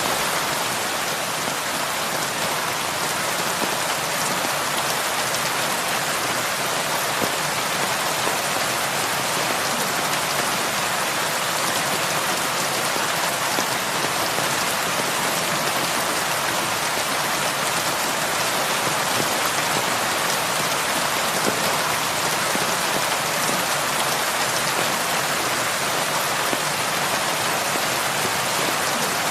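Heavy rain falling steadily on a roof, an even wash of sound.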